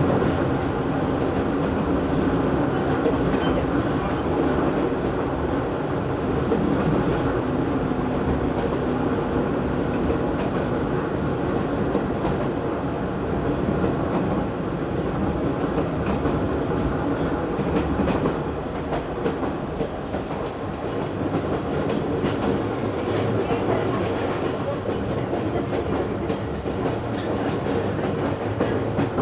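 Interior running noise of an Izu Hakone Railway Series 3000 resistance-controlled electric train under way: a steady rumble of wheels on rail with clicking over rail joints and the hum of the running gear.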